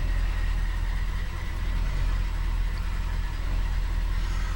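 1974 Ford Galaxie 500's 400 V8 idling steadily with a low, even rumble.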